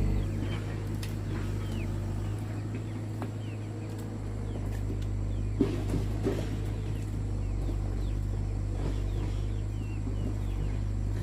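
Steady low motor hum with small birds chirping over it, and two sharp knocks about halfway through.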